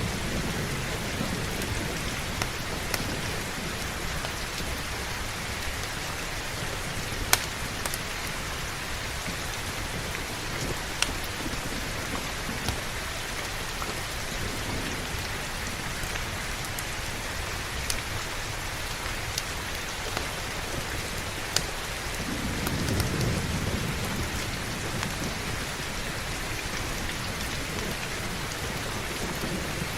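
Steady heavy rain with a low rumble of thunder swelling about two-thirds of the way through, and a few sharp single clicks over the rain.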